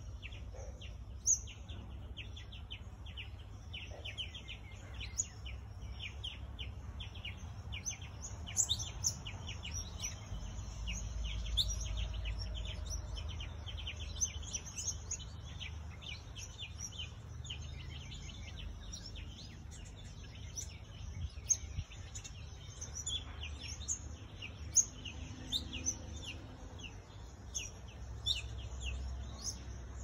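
Birds chirping: a dense, continuous stream of short high chirps, over a low steady rumble.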